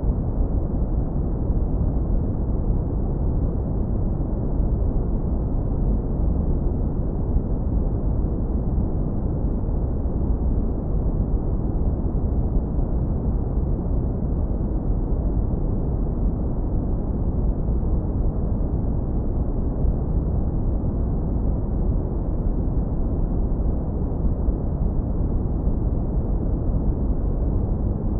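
Synthetic brown noise, low-pass filtered hard to leave a deep, smooth rumble with nothing above the low and lower-middle range. It runs steady and unchanging, with no events.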